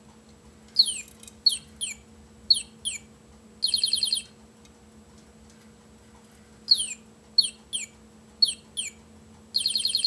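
Bird chirps: a phrase of five quick falling chirps ending in a short buzzy trill, repeated the same way about six seconds later.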